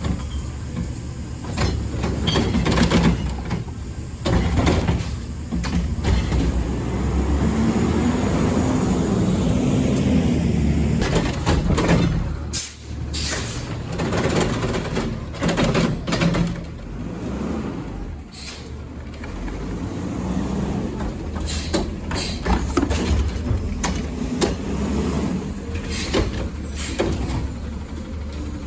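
Garbage truck working its collection route: the engine runs steadily and climbs in pitch for a few seconds about a third of the way in. Repeated bangs and knocks come throughout, with air-brake hissing.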